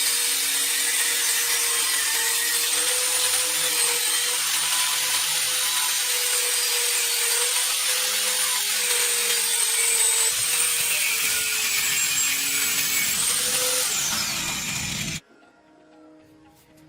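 A power tool running steadily with a loud hiss and a high whine, cutting off abruptly about fifteen seconds in.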